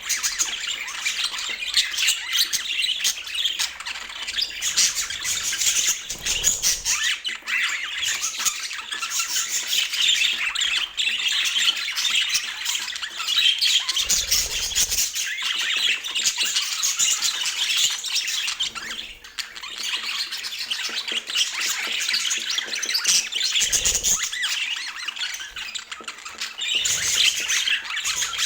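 Budgerigars chattering: a steady stream of warbling chirps broken by harsh squawks.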